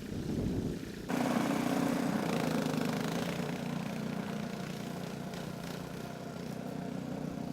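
Wind noise, then from about a second in, a motor vehicle or machine engine running steadily at a low pitch.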